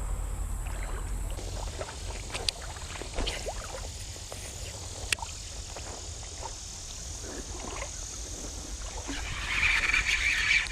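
Water sloshing and gurgling with scattered small clicks, then a louder rush of splashing water from about nine seconds in.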